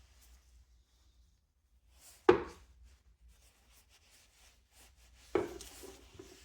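Two sharp knocks about three seconds apart, hard objects set down or bumped on a work surface while the fan is handled. The second knock is followed by about a second of lighter rattling and scraping.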